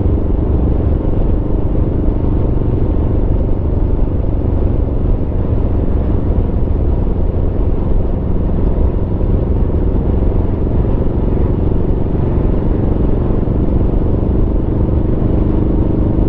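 Aprilia Tuono V4 motorcycle's V4 engine running at steady revs, with a heavy low rumble underneath and no revving up or down.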